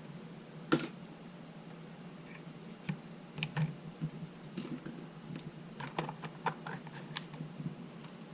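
Small clicks and taps from handling camera parts: one sharp click about a second in, then a scatter of lighter ticks and taps, over a faint steady low hum.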